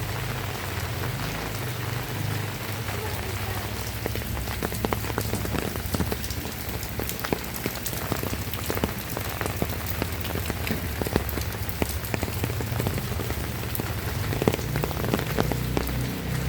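Heavy rain falling steadily, with many sharp close drop hits scattered through it.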